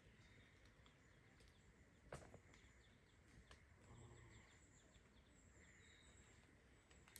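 Near silence: faint outdoor ambience with faint high chirps and a single soft click about two seconds in.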